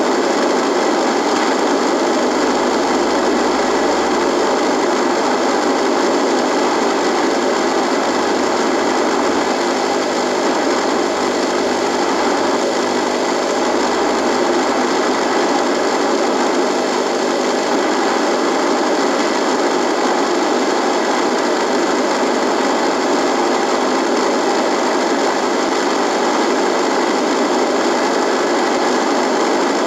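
Radio buzzing: a steady, unchanging buzz of static noise with faint steady tones running through it.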